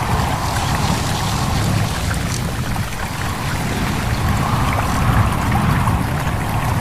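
Small stream babbling and trickling steadily over stones, with a low rumble underneath.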